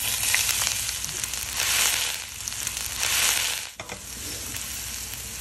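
Ginger-garlic paste sizzling as it hits hot oil in a nonstick pan and is stirred with a silicone spatula. The sizzle swells in waves over the first three seconds, dips briefly, then settles to a quieter, steady hiss.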